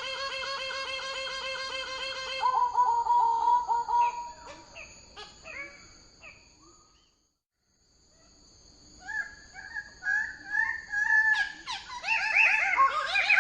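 Bird-of-paradise calling: loud, harsh, pulsing notes in a long series, fading away about halfway, with a brief silence, then starting again in short rising notes that grow louder toward the end.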